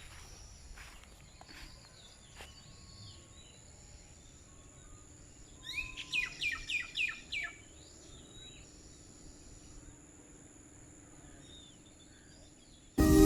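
A bird sings a quick run of about six downward-sweeping whistled notes about six seconds in, over a steady high-pitched insect drone. Music starts suddenly at the very end.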